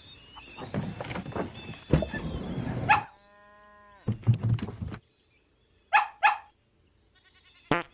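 Farm animal calls: a rough call for the first few seconds, then a steady held call about three seconds in, followed by a few short calls.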